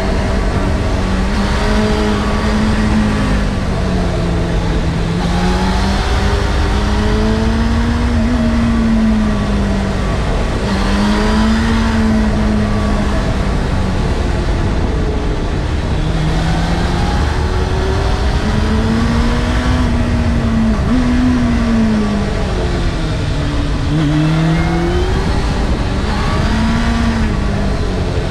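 Honda CBF600's inline-four engine pulling through the gears, its note rising with the revs and dropping sharply at each upshift, several times over, with a heavy low rumble underneath.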